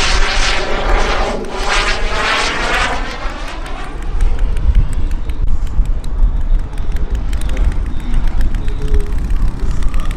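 Turbine engine of a Carf Mephisto V2 RC jet making a fast pass, its whine sweeping in pitch as it goes by. After about three seconds it drops to a more distant rumbling run, with a low buffeting of strong wind underneath.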